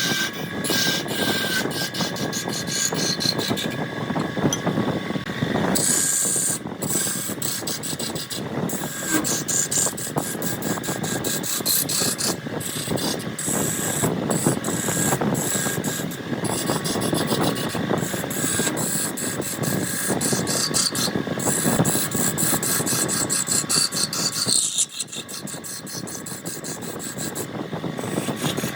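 Wood lathe turning a jackfruit log while a turning tool cuts into the spinning wood: a continuous scraping with dense rapid clicking and a faint steady whine. The cutting eases briefly near the end, then picks up again.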